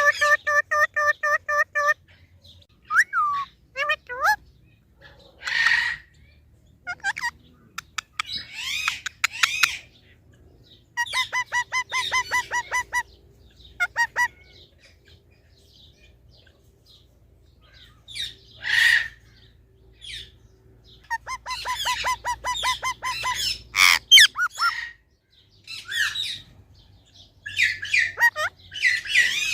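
Green parrot calling in spells with pauses between them: fast runs of short, evenly repeated notes, harsh squawks and chirps.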